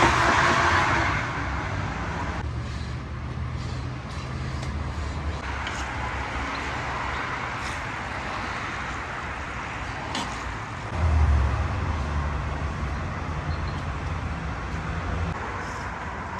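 Low engine-like hum over steady background noise, loudest at the start, fading within a couple of seconds, and swelling again about eleven seconds in.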